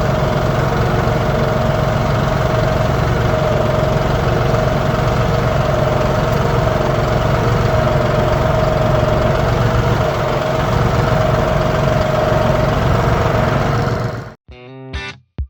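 Engine idling steadily. It cuts off abruptly about fourteen seconds in, and guitar music starts near the end.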